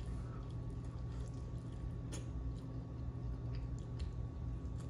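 Close-miked chewing and wet mouth sounds of someone eating chicken wings covered in ranch dressing, with scattered faint clicks over a steady low hum.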